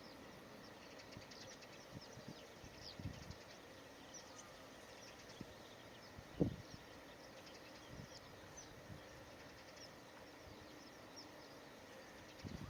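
Faint outdoor ambience with distant small birds calling in short, high, scattered notes, and a couple of soft low thumps, one about three seconds in and a louder one just past six seconds.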